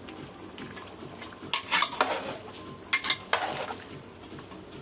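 Chicken frying in oil in a pot being stirred, a low sizzle under several louder scrapes and clinks of the stirring utensil against the pot, around one and a half to two seconds in and again around three seconds in.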